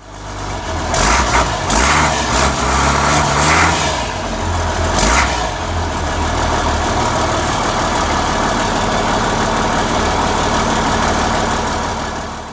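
A truck's DT466E straight-six diesel engine revved in several short blips over the first five seconds, then settling to a steady idle before fading out.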